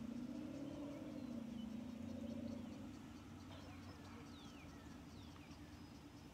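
A few short bird calls, each sliding down in pitch, about three to five seconds in, over a faint high, evenly spaced insect ticking of an early-summer dusk.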